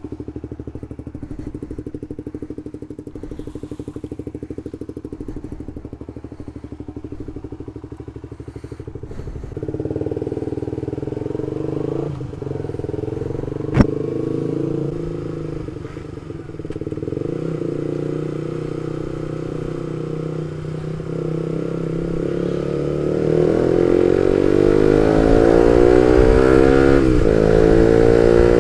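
Suzuki GSX-R150's single-cylinder engine through an R9 Misano aftermarket exhaust, running at a low, steady pulse for several seconds, then louder from about ten seconds in. A sharp click comes about fourteen seconds in. Over the last few seconds the engine revs up hard with rising pitch, with one brief dip like a gear change.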